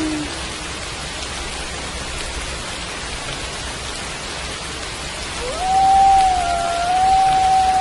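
Steady rain falling, with a wolf howling over it: a falling howl dies away at the very start, and about five and a half seconds in another howl rises quickly and holds one long, steady note, briefly joined by a second, slightly lower howl.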